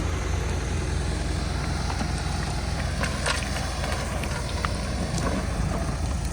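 Heavy diesel machinery engine running steadily, with a few sharp clanks and knocks about halfway through.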